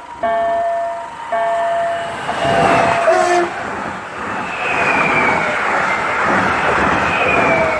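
Level crossing warning signal sounding a repeating pulsed tone, which stops about two seconds in as a train passes through the crossing with loud rail and wheel noise.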